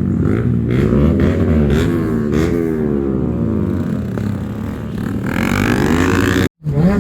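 Several motorcycle engines revving, their pitch rising and falling repeatedly and overlapping. The sound cuts out abruptly for a moment near the end.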